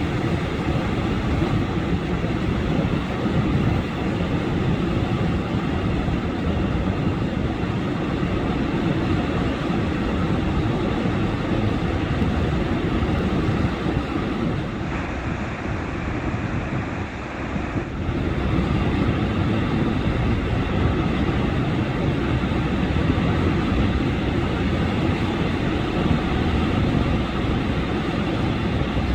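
Black Hawk helicopter rotors and turbines running, a steady dense drone that eases briefly a little past the middle.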